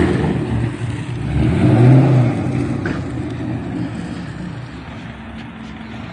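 Roush Mustang engine revving through its exhaust, rising to a peak about two seconds in and then dropping back toward idle.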